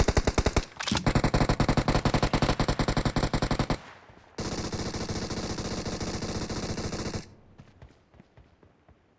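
Video game automatic gunfire: a short burst, then a sustained burst of rapid, evenly spaced shots lasting nearly three seconds. After a brief pause comes a steadier, quieter stream of fire for about three seconds, then it falls to near silence with a few faint clicks.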